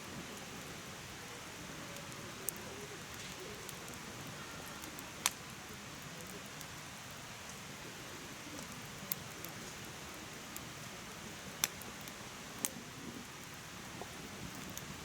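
Firewood burning in a mesh fire pit: a steady hiss with sharp crackling pops every few seconds, the loudest about five seconds in and near twelve seconds.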